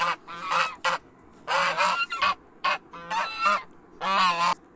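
Goose honking repeatedly: about eight short nasal honks in irregular groups.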